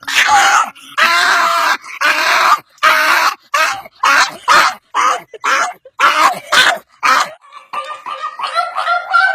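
A dog giving a rapid run of about a dozen short, harsh calls, then a wavering, higher-pitched drawn-out call from about eight seconds in.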